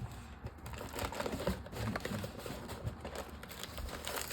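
Cardboard LEGO box being pried open by hand: scattered small clicks, scrapes and crinkling as the tabs and flaps resist.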